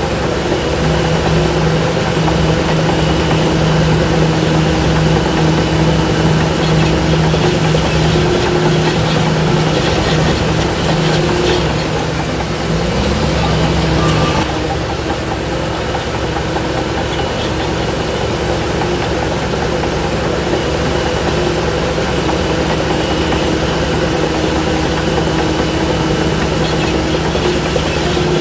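Heavy diesel earthmoving machinery running steadily, its engine working harder for the first half and easing off about fourteen seconds in.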